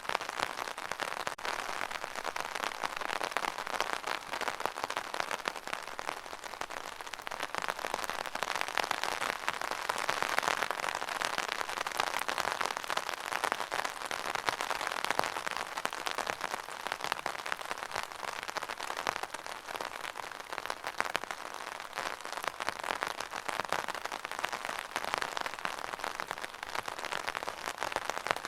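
Steady rain: a dense, even patter of countless drops, swelling slightly around the middle.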